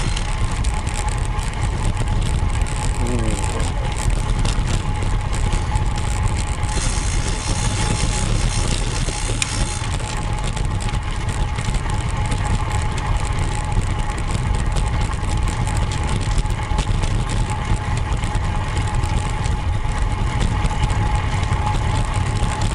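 Road bike riding along at speed: wind rushing over the camera microphone with tyre noise on the road, and a faint steady high tone throughout.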